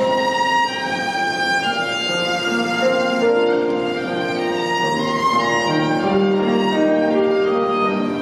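Live violin and piano duo: the violin plays a melody of held, legato notes over piano accompaniment.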